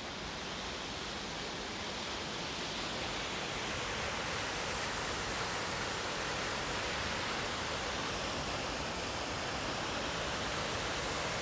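Fast-flowing water rushing steadily, a constant even roar with no breaks.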